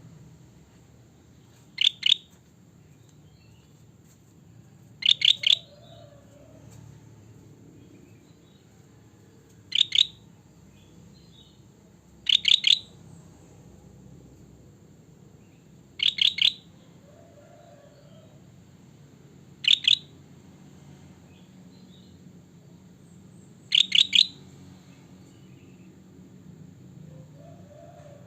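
A kutilang batik bulbul calling in short, loud bursts, about eight of them, two to four seconds apart. Each burst is a quick run of three or four high notes.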